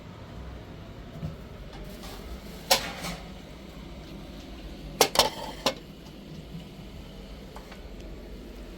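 A few sharp clinks and knocks of hard objects being handled, like dishes: a pair about three seconds in and a quick group of three around five seconds in, over a steady low hum.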